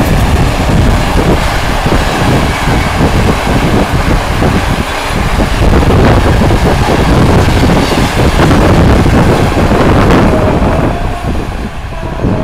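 Passenger coaches of a TLK express train rolling past close by, wheels clattering on the rails in a continuous loud rush. The noise dips briefly near the end as the last coach goes by.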